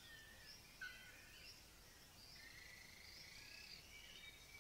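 Faint bird calls. There are several short chirps and quick rising whistled notes, and a longer drawn-out note in the middle.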